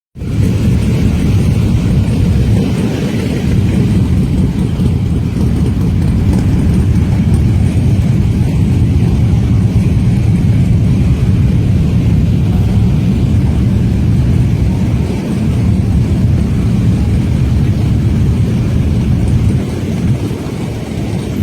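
Motorcycle engines rumbling steadily, a low, heavy sound with no break.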